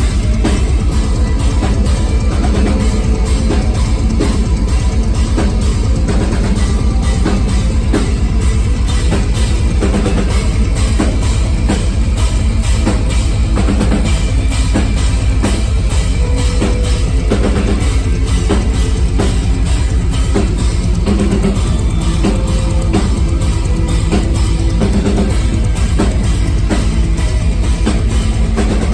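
Live metal band playing loud, with fast, heavy drumming, a pounding bass drum and guitars.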